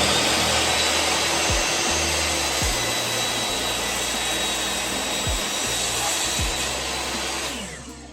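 Electric power saw running steadily as it cuts a wooden board down the middle, then shutting off and winding down near the end.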